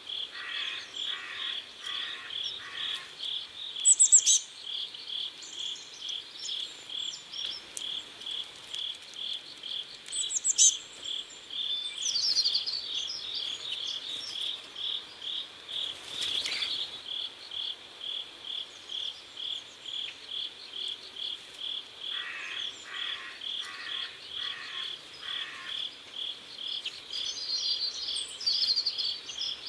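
Crickets chirping in a steady, even pulse, about two to three chirps a second. Short bird chirps come in now and then, and a second, lower pulsed call joins twice for a few seconds.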